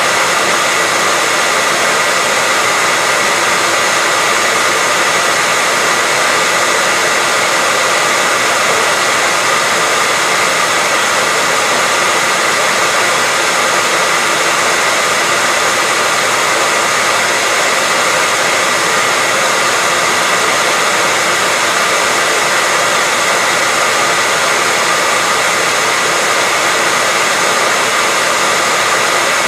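Hair dryer running steadily: a constant, even blowing noise with a faint whine on top that never changes.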